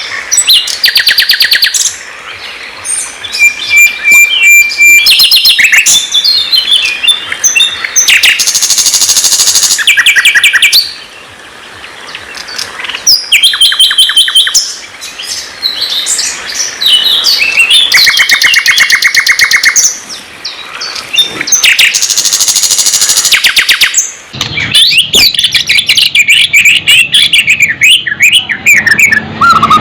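Songbird singing loud, varied phrases of fast repeated trills and whistled notes, with short pauses between phrases. A low steady hum joins it near the end.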